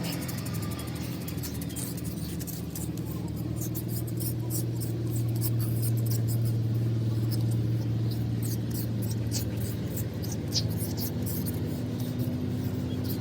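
Engine idling steadily, with scattered light clicks over it.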